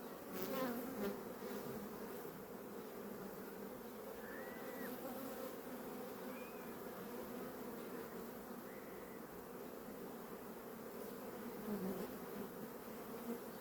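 Honeybees buzzing steadily around an opened hive: a continuous low hum with a fainter higher overtone, with a brief louder burst about half a second in.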